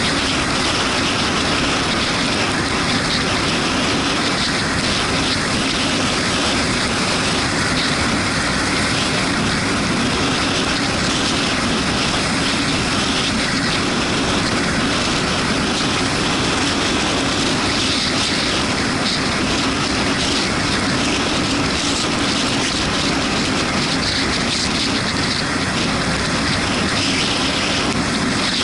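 Steady rush of wind and road noise while riding a Yamaha MT-125 motorcycle on wet roads in the rain, with its single-cylinder engine running underneath.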